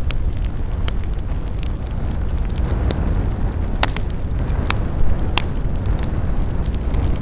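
Wood fire burning in a fireplace: a steady low rumble of flames with scattered sharp crackles and pops, about one or two a second, the loudest about five seconds in.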